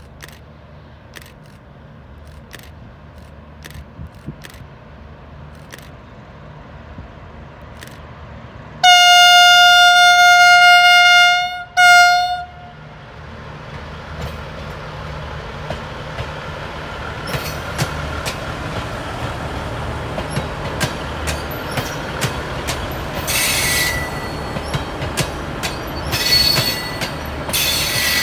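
V/Line VLocity diesel multiple unit approaching on its horn: one long blast about a third of the way in, then a short one. After that the engine and wheel noise grows louder as the train nears and passes, with repeated clicks from the rail joints.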